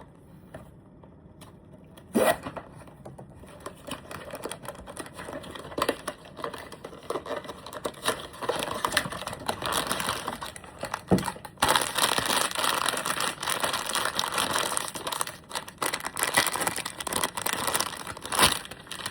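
Blind-box packaging being torn open and crinkled by hand. There is a sharp snap about two seconds in, then the crinkling and tearing of plastic or foil grows louder and busier through the second half.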